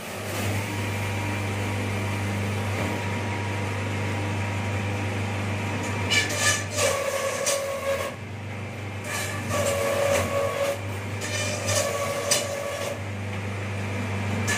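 Slicer-planer machine running: its motor comes up to a steady hum at the start, then from about six seconds in three spells of harsher, louder cutting noise with a whine as material is fed through the blades.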